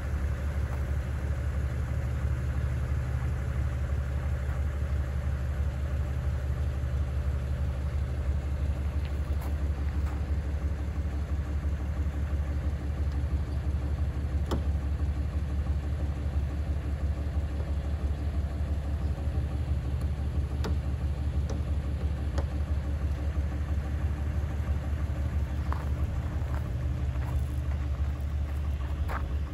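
1948 Lincoln Continental's 292 cubic inch V12 engine idling steadily.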